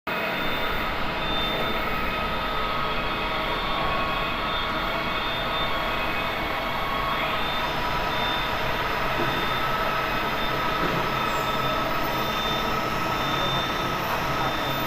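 Nut-and-bolt making CNC machine running continuously: a steady mechanical drone with several constant whining tones over it.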